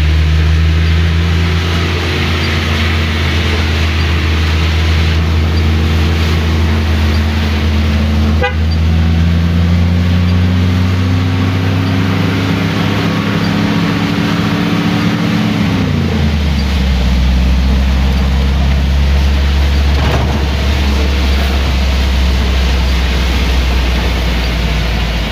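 Old 1970s Mitsubishi Colt's engine heard from inside the cab, running steadily and then climbing slowly in pitch before dropping away sharply about two-thirds of the way through. Rain and wet-road tyre hiss run underneath.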